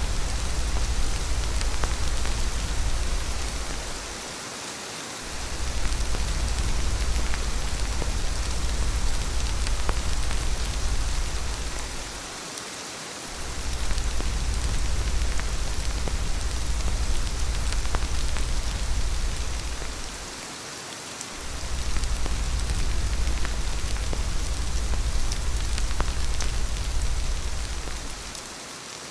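Steady rain falling, an even hiss with scattered drop ticks, over a deep low rumble that fades out for about a second roughly every eight seconds, four times.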